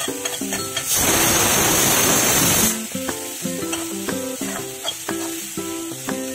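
Sliced onions and ginger-garlic frying in oil in a kadai, sizzling as they are stirred with a spatula. A loud sizzle swells up about a second in and lasts nearly two seconds, under background music with plucked notes.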